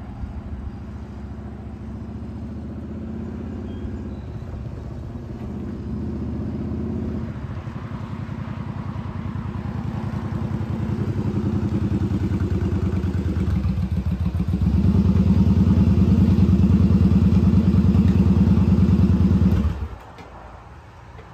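Motorcycle engine running, growing louder over the first fifteen seconds with a few shifts in pitch, then cutting off suddenly near the end.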